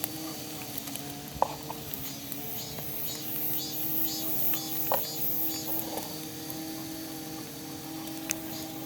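Wood fire crackling, with a few sharp pops, under insects chirping in a steady pulsing rhythm of about two to three chirps a second.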